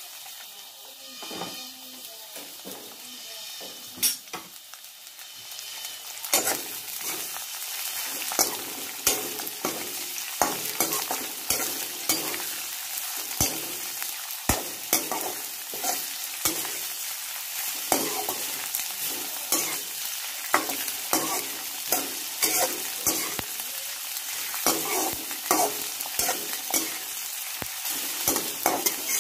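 Sliced onions sizzling in hot oil in an aluminium wok, stirred with a metal spatula. From about six seconds in, the spatula scrapes and clicks against the pan roughly once or twice a second, with one sharper knock just before.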